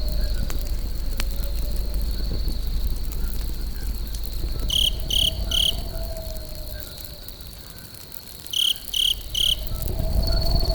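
Fire crackling over a low rumble, with a steady high insect trill throughout. Twice, about five and nine seconds in, a set of three short, loud chirps.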